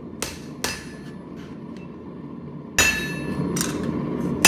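Hammer blows on hot 1084 steel on a railroad-track anvil, forging down a knife's tang. Two lighter strikes in the first second, then three heavier, ringing blows from just under three seconds in, over a steady rushing noise.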